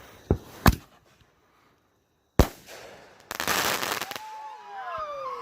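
Consumer fireworks going off. There are sharp bangs, a burst of hissing about three and a half seconds in, then several overlapping whistles falling in pitch near the end.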